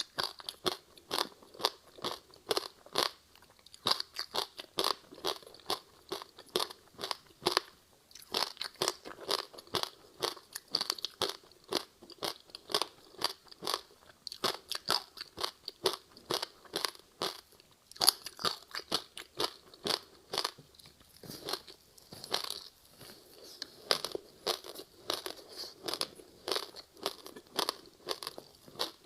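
Frozen ice with passion fruit and sesame seeds being bitten and chewed close to the microphone: sharp, rapid crunching, several crunches a second with brief pauses between bites.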